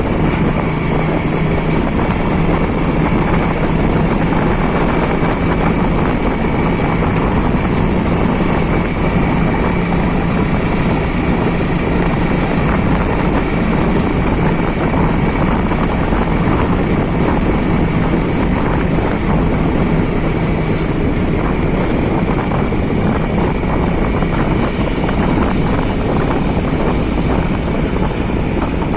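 A vehicle engine running steadily with a constant low hum, mixed with wind rumbling on the microphone.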